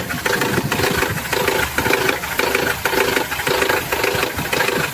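Mercedes-Benz M111 four-cylinder petrol engine idling with a rhythmic knock, about two beats a second. The owner hears it coming from low on the second cylinder, and new tappets, oil pump and gasket have not cured it. The mechanic takes it for a 'gurgle' (قرقرة) from the air-fuel mixture or ignition being out of step, not a damaged engine.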